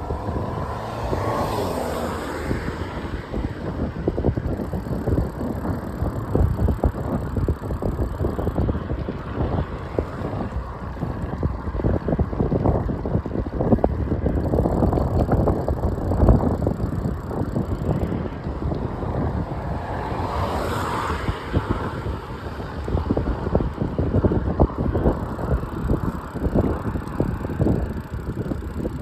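Wind buffeting the microphone while riding along, with rolling road noise underneath; the gusty rumble rises and falls throughout.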